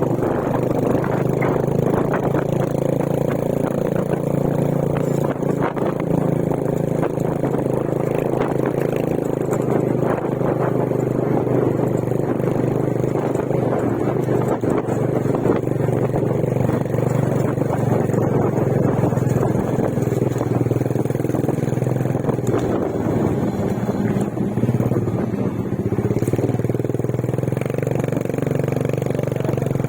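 A motor vehicle's engine running steadily while travelling, with a constant rattle of small knocks and clatter over it.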